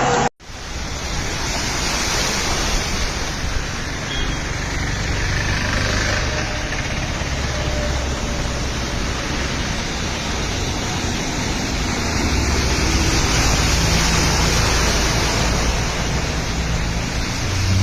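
Motor vehicle engine running steadily under a continuous rushing noise, with no break.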